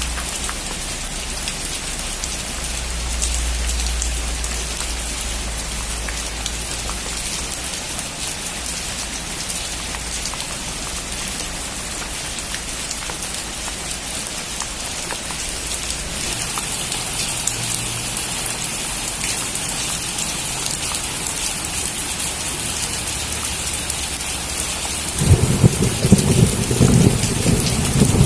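Steady rain falling, a dense hiss that grows heavier about halfway through. A low rumble of thunder sounds in the first several seconds, and a loud, crackling peal of thunder comes near the end.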